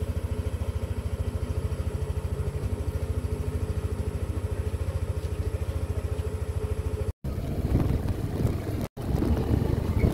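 Motorcycle engine idling steadily with an even, rapid beat. Near the end, after two brief cuts, the bike is under way on a rough dirt track, its engine running under wind noise on the microphone.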